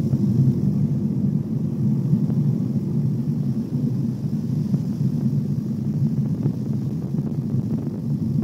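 Small propeller plane's piston engine running steadily, heard from inside the cockpit.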